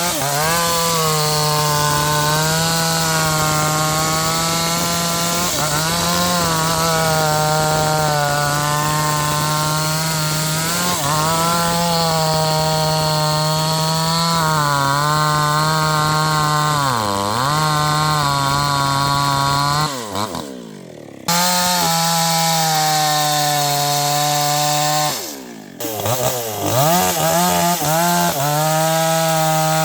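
NewWest 628 two-stroke chainsaw running at high revs and cutting sengon wood with a sharp chain, its pitch sagging under load in the cut and recovering. About twenty seconds in, and again about five seconds later, it briefly drops off throttle before revving back up.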